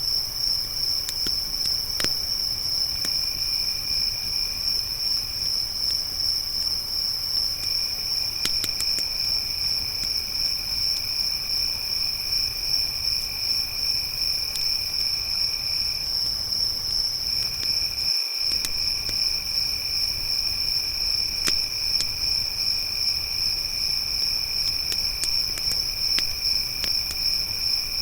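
Crickets trilling steadily in a high, fast-pulsing chorus, with a second, lower insect trill that stops and starts a few times. A campfire crackles now and then with sparse, sharp pops.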